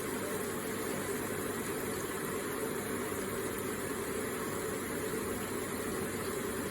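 Electric water feature with water trickling and splashing steadily in an even, unbroken wash of sound.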